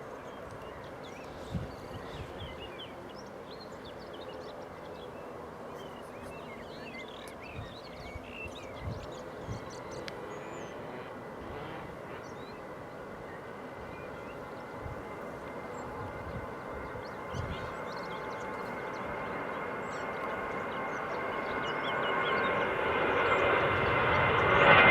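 Airliner engines: a steady whine made of several tones, growing steadily louder over the last several seconds as the aircraft draws near. Small birds chirp faintly in the first half, and there are a few soft low thumps.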